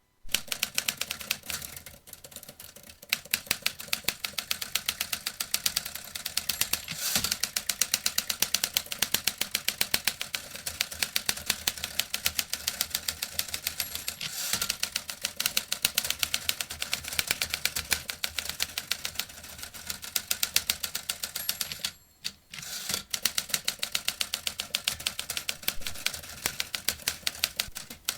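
Vintage typewriter being typed on in rapid, continuous keystrokes, with a brief pause about 22 seconds in.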